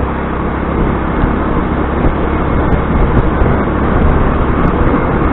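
Motor scooter riding along, its engine running under a steady rush of wind and road noise.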